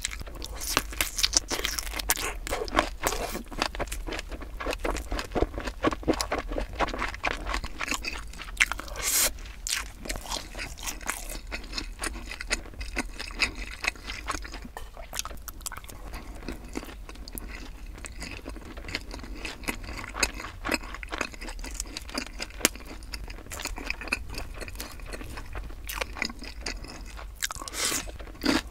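Close-miked eating sounds: a bite into a large kielbasa sausage, then steady crunchy, wet chewing made of dense crackling clicks, busiest in the first dozen seconds, with another flurry near the end.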